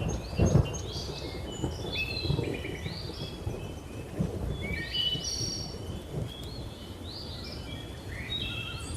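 Thunder rumbling and crackling low under a chorus of many birds chirping and trilling, with a louder rumble about half a second in.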